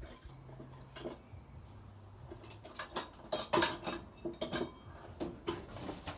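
Metal hand tools clinking and knocking in irregular clusters, busiest a few seconds in.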